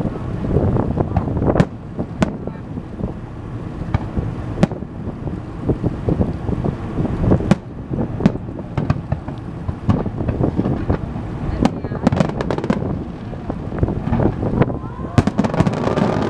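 Fireworks bursting over the sea: single sharp bangs every few seconds, then a rapid flurry of bangs and crackles near the end, over steady wind on the microphone.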